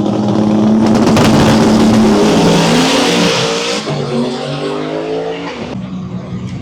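Drag car accelerating hard down the strip: its engine pitch climbs and drops twice as it shifts up through the gears, fading as it pulls away.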